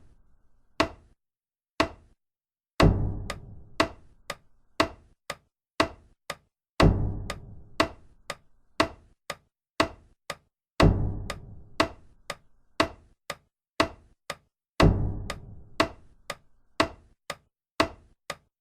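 Sparse percussive music: a deep drum hit with a long fading tail every four seconds, with short sharp clicks about two a second between the hits, over dead silence.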